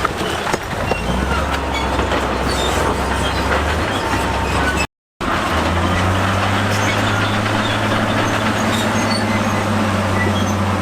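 Heavy diesel earthmoving machinery running steadily, with metallic clanking and faint squealing of the kind made by a crawler bulldozer's steel tracks. The sound drops out for a moment about halfway, then carries on.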